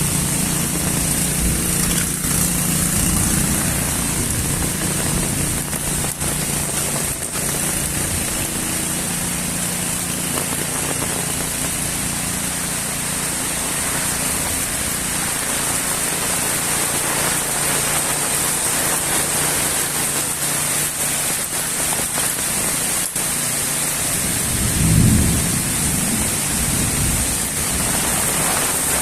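Steady moderate rain falling, an even hiss throughout. A low steady hum fades out during the first third, and a brief low rumble swells up about 25 seconds in.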